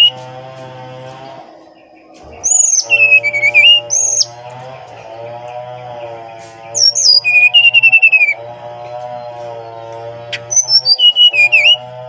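Brown-chested jungle flycatcher (sikatan rimba dada coklat) singing three short phrases of rapid clear whistles that fall in pitch, starting about two and a half, seven and eleven seconds in. Steady background music runs under the song.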